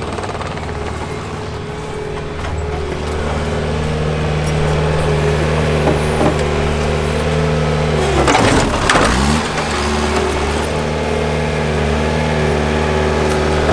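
Bulldozer engine running steadily, with a brief deep drop in pitch and recovery about eight seconds in.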